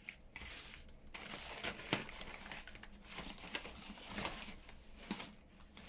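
Paper and card rustling and crinkling as journal pages and ephemera are handled and searched through, with a few sharp light taps.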